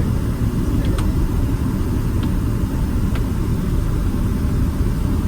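Steady low rumble of a Boeing 767-300ER heard from inside the economy cabin, its engines and airflow, with a few faint clicks.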